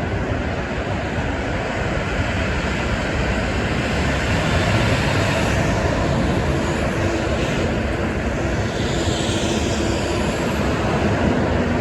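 Steady highway traffic noise from trucks and cars passing at speed, with vehicles sweeping by in the middle of the stretch.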